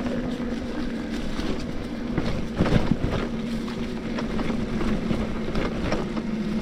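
Bafang BBSHD mid-drive e-bike motor running under power on a trail, a steady hum, with wind on the microphone and scattered short knocks and rattles from the bike over rough ground; the loudest thump comes a little under 3 s in.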